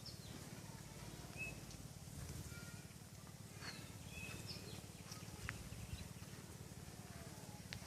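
Birds chirping, scattered short calls and quick whistled notes, over a steady low rumble.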